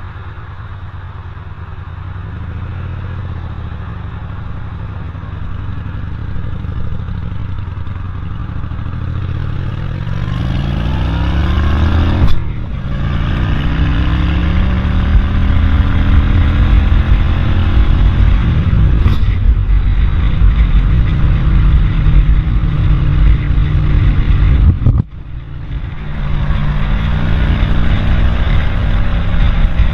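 Motor vehicle engine accelerating, its pitch rising over a few seconds about a third of the way in, then running steadily at speed. Near the end it dips sharply for a moment before picking up again.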